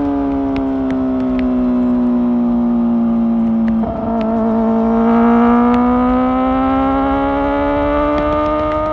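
Kawasaki ZX-4R's inline-four engine, breathing through an Akrapovic exhaust, running under way. Its note sags slightly, wavers briefly about four seconds in, then rises steadily as the bike accelerates.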